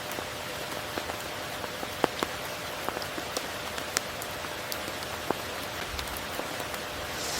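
Steady rain falling, a close, even patter with individual drops ticking sharply here and there, two of them loudest about two and four seconds in.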